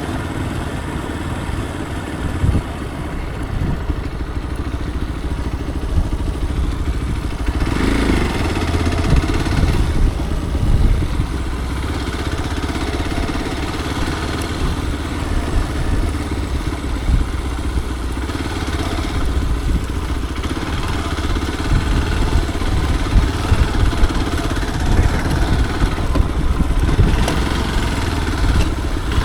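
Motorcycle engine running steadily while riding, with a brief rise in noise about eight seconds in.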